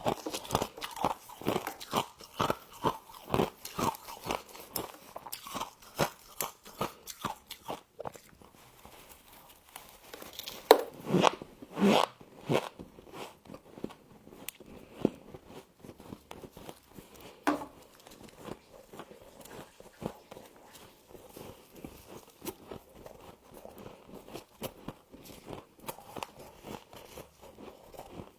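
A person biting and chewing frost close to the microphone: quick crisp crunches, about three a second, for the first several seconds, a few louder bites about eleven to twelve seconds in, then quieter, sparser chewing.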